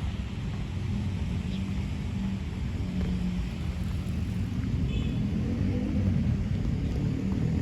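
Low, steady rumble of a motor vehicle engine running close by, growing a little louder towards the end.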